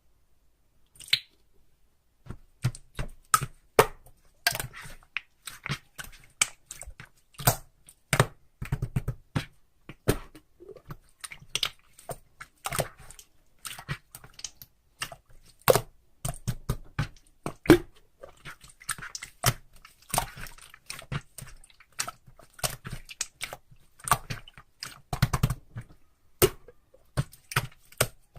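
Crunching and chewing: irregular sharp crackles and clicks, several a second, starting about a second in.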